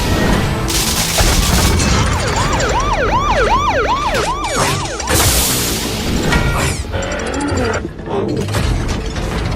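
Cinematic trailer music with booms and whooshing impacts. From about two seconds in to about five seconds, a police siren sounds in a quick rising-and-falling yelp, about two to three cycles a second.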